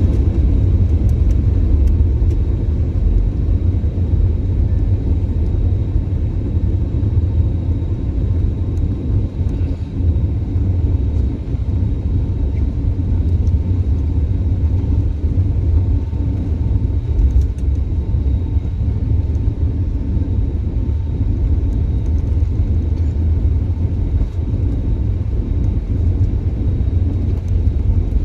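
Passenger jet airliner during takeoff: a loud, steady low rumble of engines and airflow, with a faint thin whine held throughout.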